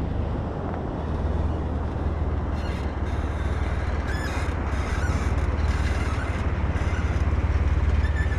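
A Jeep engine running at low revs, a steady low drone that grows slightly louder toward the end, as the Jeep creeps up onto a log.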